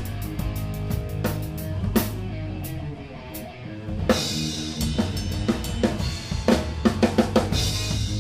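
Live rock band playing, with the drum kit to the fore over bass and guitar. The music thins out midway, then a cymbal crash comes in, and a quick drum fill near the end leads into another crash.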